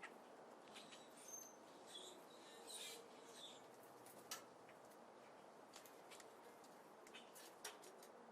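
Small birds at a seed feeder: a few short high chirps in the first half, and scattered sharp clicks of beaks pecking at seed throughout, all faint.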